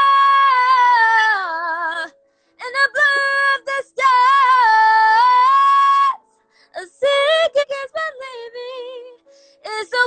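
A woman singing unaccompanied: long held high notes with a wide vibrato, broken by short pauses between phrases.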